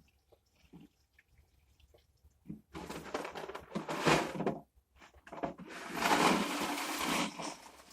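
Water splashing and pouring in two bursts of a couple of seconds each, as the refrigerator-built fish-pond filter is being cleaned out.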